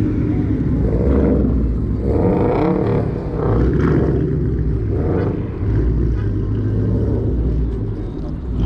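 Car engines running with a steady low rumble, with people talking over it.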